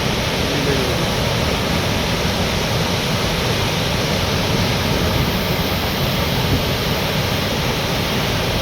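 Running water rushing steadily, an even, unbroken wash of noise.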